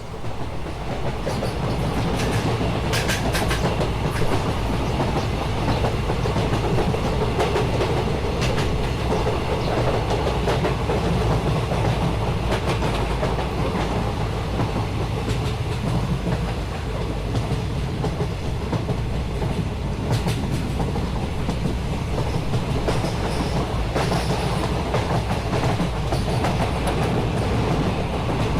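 A train running past on the rails, a steady heavy rumble with wheels clicking over the rail joints now and then.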